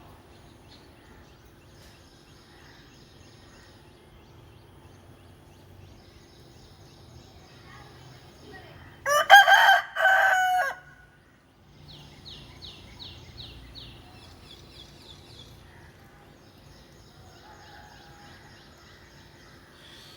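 A rooster crows once, loudly and close, about nine seconds in: a single crow of about two seconds with a brief break in the middle, answering another rooster's call. Faint high chirping repeats in the background before and after the crow.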